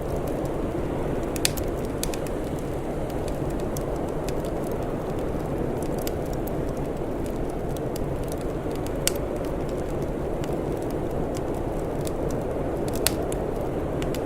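Wood fire crackling, with frequent small ticks and three sharper pops about a second and a half, nine and thirteen seconds in, over a steady low rushing noise.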